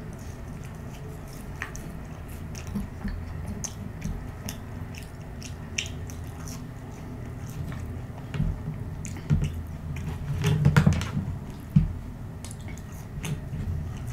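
Close-miked chewing and mouth sounds of a person eating McDonald's French fries, with many short clicks and a louder stretch of chewing about ten and a half seconds in.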